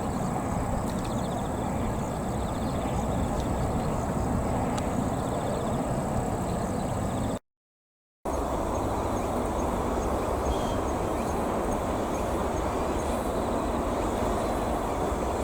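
A steady rushing noise with faint high chirping over it. The sound cuts out completely for about a second near the middle.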